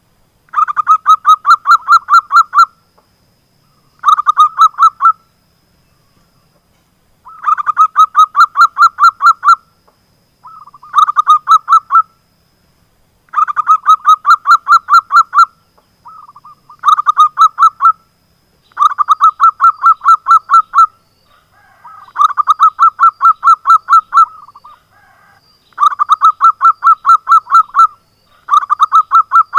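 Zebra dove (perkutut) song played as a lure call: about ten loud phrases of rapid, evenly repeated staccato notes, each phrase lasting one to two seconds with short pauses between them.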